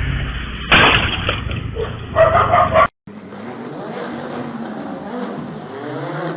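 Vehicle noise with a sudden loud impact about a second in and a short squeal, typical of a road crash. After a cut, another vehicle runs with its engine pitch rising and falling.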